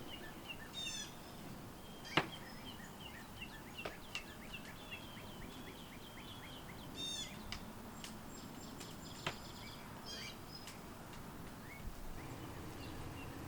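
Small songbirds chirping and calling, with a quick run of repeated notes for a few seconds, over a faint background; a few sharp snaps stand out, the loudest about two seconds in.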